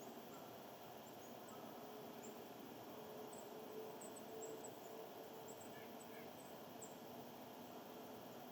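Faint outdoor ambience with small birds giving short, very high chip calls scattered throughout, over a faint steady hum.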